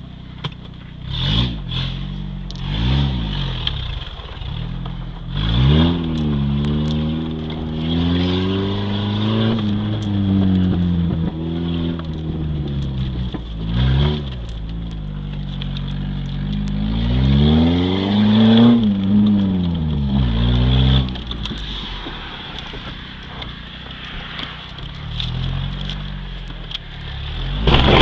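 Opel Vectra's engine revving through a tuned exhaust: a couple of short blips, then longer revs that climb and fall back, repeated several times.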